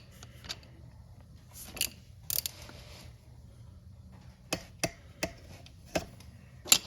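Scattered sharp clicks and light metallic knocks from a chain rivet tool being worked on a motorcycle drive chain, several of them coming in a run in the second half.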